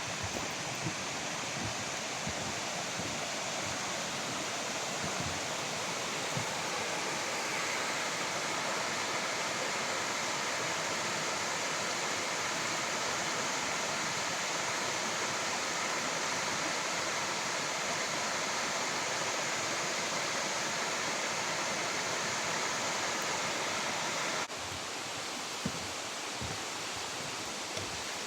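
Waterfall rushing: a steady, even roar of falling water that drops slightly in level about 24 seconds in.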